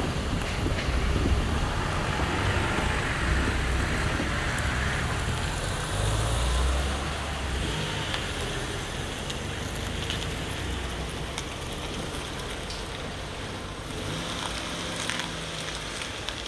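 LDH diesel-hydraulic locomotive hauling a passenger train past and away, its engine hum and the rattle of the coaches on the rails growing fainter as it recedes.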